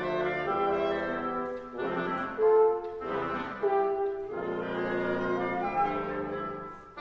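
Woodwind quintet (flute, oboe, clarinet, French horn, bassoon) playing classical chamber music: several lines moving in held and changing chords, the horn prominent. The sound dies away just before the end.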